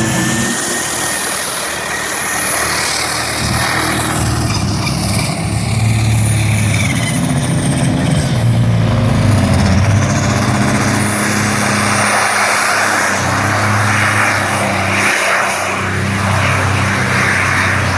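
Peterbilt diesel pulling truck's engine running hard under load through a pull, its pitch shifting up and down, with a faint high whistle rising and falling above it.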